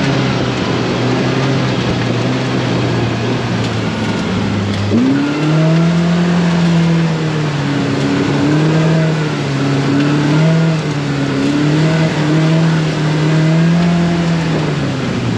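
Polaris RZR Pro R side-by-side's 2.0-litre four-cylinder engine running at low speed while crawling through washed-out trail: it holds a steady low note for about five seconds, then rises and falls again and again as the throttle is blipped.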